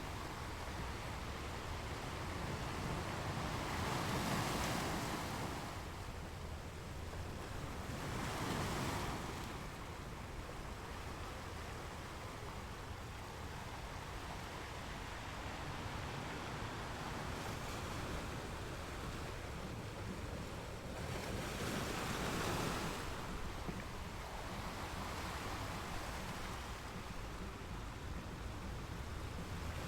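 Ocean waves breaking and washing on a beach, with three louder surges of surf, about 4 s, 9 s and 22 s in, over a steady wash. Some low wind rumble sits beneath.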